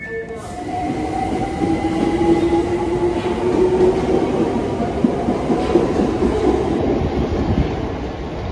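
London Overground electric train moving along the platform, its traction motors whining at a steady, gently rising pitch over the noise of its wheels on the rails. It builds in the first couple of seconds and fades toward the end.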